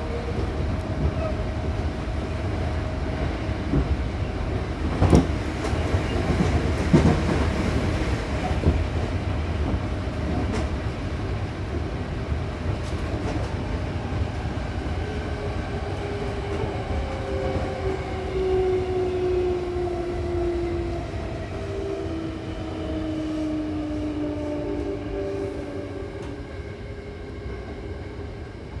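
Hankyu Kyoto Line electric train running, heard from inside the car by the doors: a steady rumble with a couple of sharp knocks from the wheels about five and seven seconds in. Later, a humming motor whine slowly falls in pitch and the rumble eases as the train slows for the next station.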